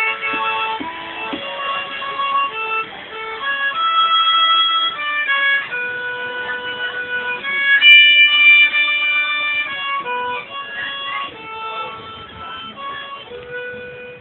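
Live old-time tune played on fiddle and harmonica, with held, stepping melody notes and chords.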